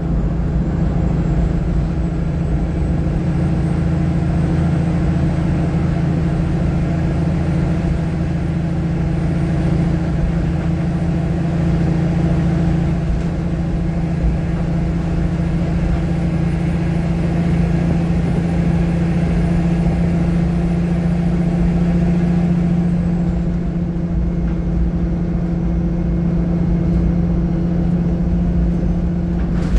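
VDL SB200 bus engine running steadily, heard from inside the passenger cabin: a continuous low hum with a strong, steady tone.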